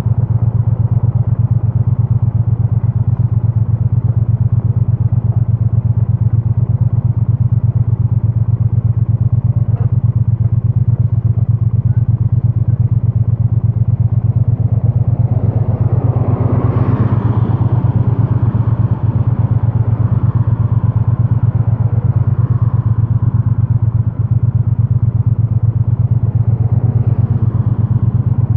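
Triumph Bonneville T100's 900 cc parallel-twin engine running steadily through a stock exhaust while the bike is ridden, heard through a microphone stuffed in a backpack. A louder rushing swell rises and fades about halfway through.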